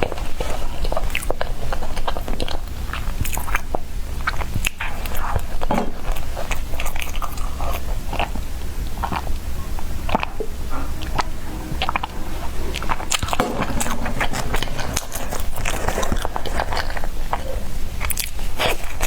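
Close-up eating of soft bread: repeated biting and chewing, heard as many irregular short mouth clicks over a steady low hum.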